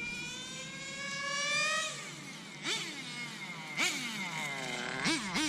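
Nitro RC car's small glow engine revving up for about two seconds, then dropping, followed by three short revs that fall away. It stays in first gear because the two-speed transmission is not shifting into second.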